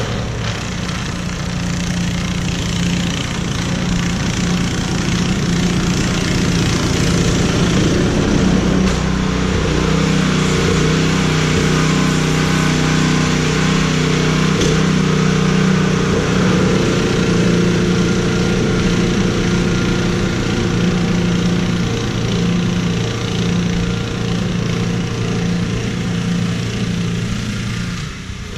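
An engine running steadily, its pitch shifting slightly about a third of the way in.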